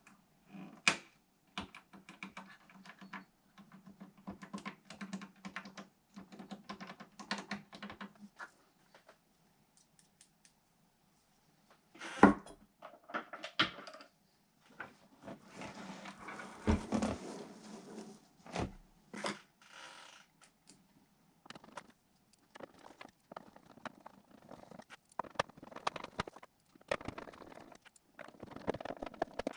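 DigiTech RP-1 multi-effects processor making glitchy no-input feedback noise: irregular clicks and crackling bursts, with a low buzz for the first eight seconds or so, then a few seconds of silence before more bursts.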